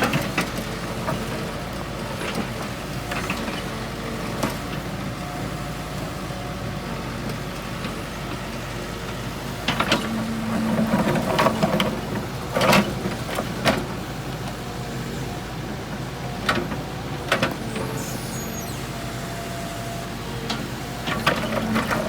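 Diesel engine of heavy construction machinery running steadily at a work site, with a series of sharp clanks and knocks, bunched together about halfway through and again near the end.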